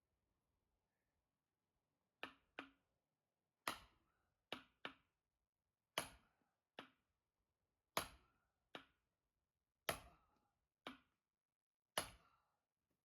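Firewood being split with an axe: a sharp crack roughly every two seconds, most followed a fraction of a second later by a second, softer knock.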